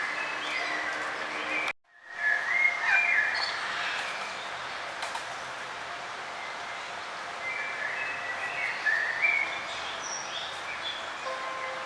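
Small songbirds chirping and trilling in short scattered phrases over a steady outdoor hiss. The sound cuts out abruptly for a moment about two seconds in, then resumes, as at a splice in the recording.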